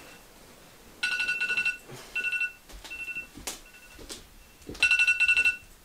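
An electronic ringing tone going off in repeated bursts of rapid beeps, each burst a second or less with short gaps between, and a quieter stretch in the middle where two faint clicks sound.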